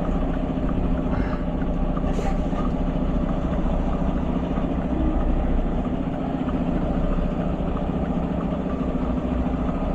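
Mack truck's diesel engine running steadily at low revs, with a short click about two seconds in.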